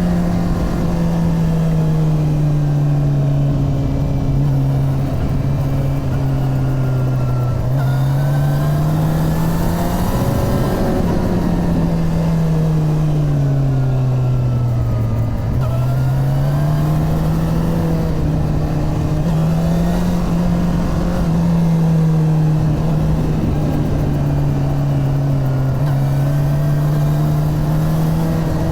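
Suzuki GSX-R 750 inline-four engine running continuously, its note sinking and climbing slowly several times as engine speed falls and rises.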